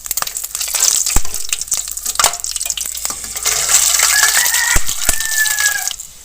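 Whole spices and bay leaves sizzling in hot oil in a kadai, stirred with a spatula that clicks and scrapes against the pan. A rooster crows in the background about four seconds in.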